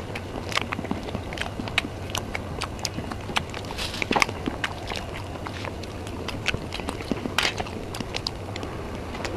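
Close-miked eating sounds of soft mousse cake: irregular wet mouth clicks and smacks while chewing, with a cluster of louder clicks about four seconds in as a forkful goes into the mouth.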